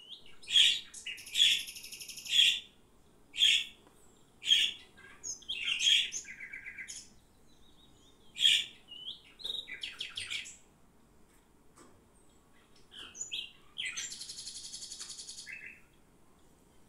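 A small bird chirping in short high calls about once a second, with two rapid buzzy trills, one about a second in and another about fourteen seconds in.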